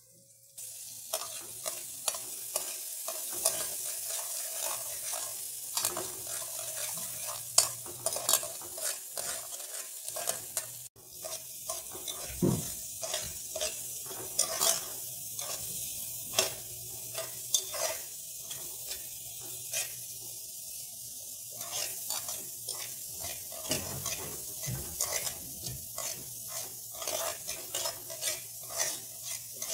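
Chopped carrot, onion and spring onion sizzling as they are sautéed in a metal pot, with a utensil scraping and clicking against the pot as they are stirred. It starts about half a second in.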